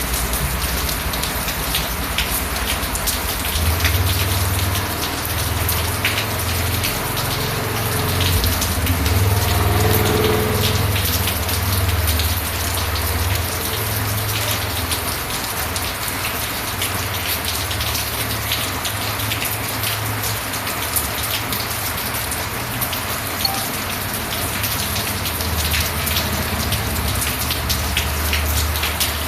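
Steady rain falling, with many individual drops ticking sharply on a hard surface, over a low rumble that comes in a few seconds in.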